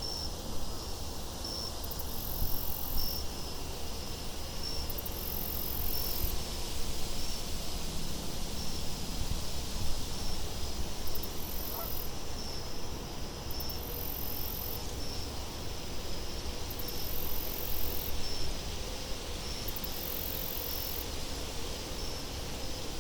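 Crickets chirping in a steady, regular rhythm, with a higher, thinner insect buzz coming and going every few seconds, over a low rumble of wind.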